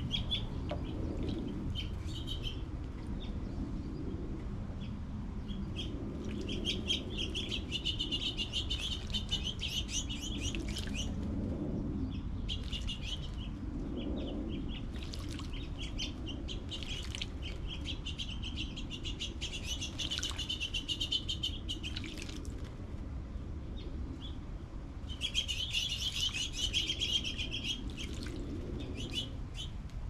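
Songbirds chirping in long, rapid twittering runs of high notes, several times over, with shorter chirps between, over a low steady background rumble.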